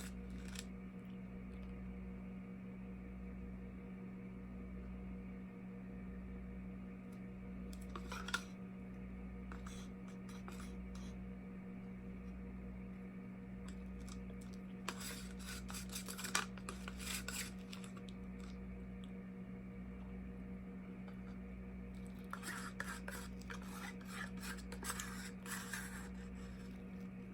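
Scraping and light clicking of leftover acrylic paint being scraped out of a paint container, in short bouts with pauses between, over a steady low hum.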